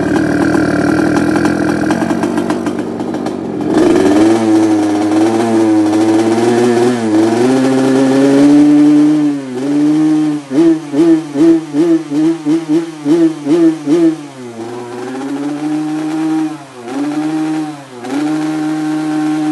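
Yamaha RX-King two-stroke single-cylinder motorcycle engine being revved on the spot. The revs rise and fall repeatedly, with a quick run of throttle blips, about three a second, in the middle.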